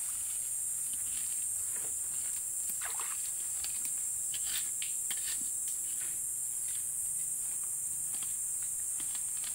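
Scattered light splashes and clicks of someone wading and feeling through shallow water and sand, over a steady high-pitched insect drone.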